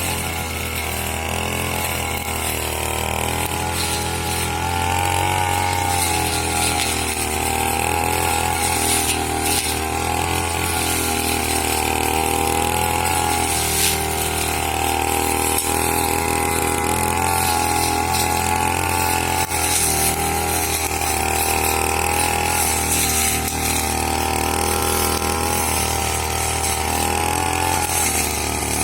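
Petrol brush cutter (grass trimmer) engine running at high speed, its pitch dipping and rising every few seconds.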